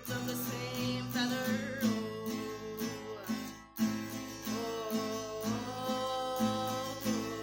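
Music: an acoustic guitar strummed in a steady rhythm, with long held melody notes over it.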